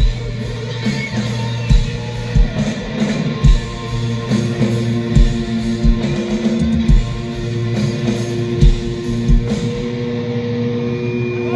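Live rock band playing an instrumental passage: distorted electric guitars and bass under a drum kit, with drum hits thinning out and long held guitar notes ringing in the second half.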